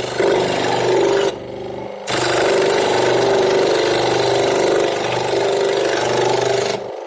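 An electric power tool running against wood, a steady machine hum under a dense rasping hiss. It stops for under a second about a second in, then runs again until just before the end.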